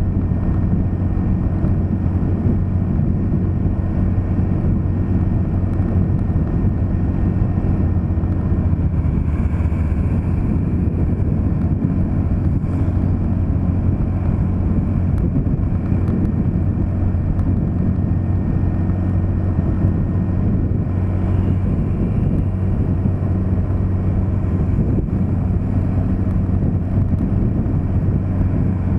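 A moving vehicle's engine running with a steady low hum under constant road noise.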